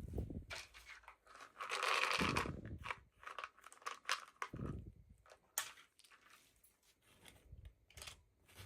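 Plastic packaging crinkling and tearing as a miniature toy package is unwrapped, with short clicks and a few soft thuds of handling. The crinkling is densest about two seconds in, and the sounds thin out in the last few seconds.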